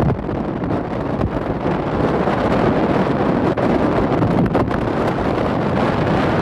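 Wind buffeting the microphone over the steady noise of a passenger motor boat under way on choppy water.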